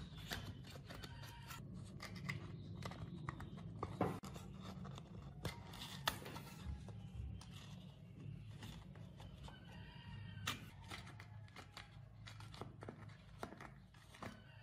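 Hand work at a bench: scraping and cutting sounds with many small clicks and knocks, over a low steady hum.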